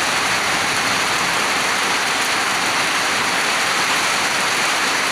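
Heavy rain falling steadily, a dense, even hiss of rain.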